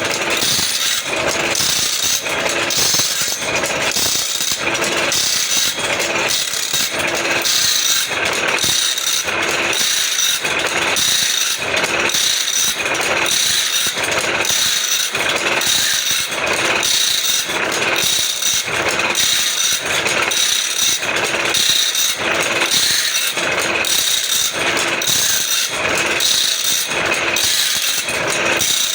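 Automatic band saw blade sharpening machine running, its grinding wheel working tooth after tooth in an even repeating rhythm over a steady motor whine.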